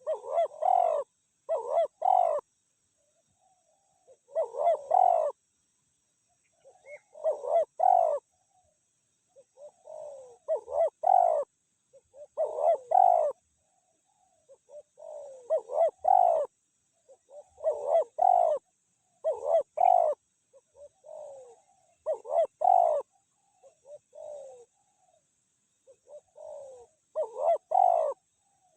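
Spotted doves cooing: repeated short phrases of soft coos every second or two, some phrases loud and close, others fainter.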